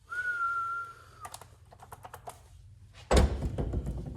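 Hand-tool and metal-part handling noises: a brief high steady squeal at the start, a run of light clicks, then a loud rattling clatter lasting about a second near the end.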